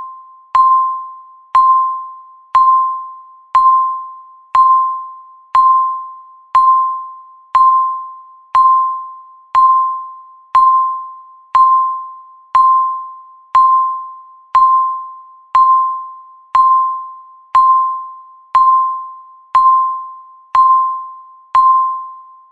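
Countdown timer beeping once a second: about twenty-two identical electronic beeps, each a single pitched tone that starts sharply and fades away before the next.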